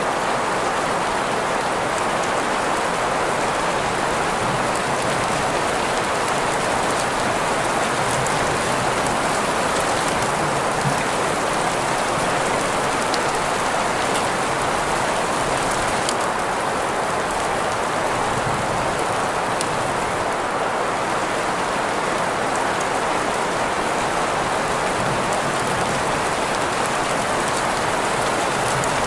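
Steady rain mixed with green noise: a constant, even hiss strongest in the middle range, with faint scattered drop ticks. It does not change throughout.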